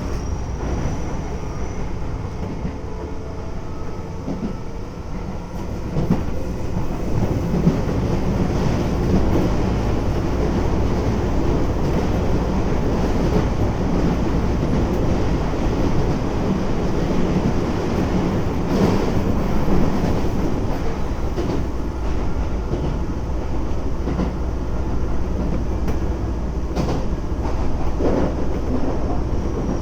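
Keisei 3400-series electric train heard from inside the car while running at speed: steady rumble of wheels and traction motors, growing a little louder about six seconds in, with occasional rail-joint clacks in the second half.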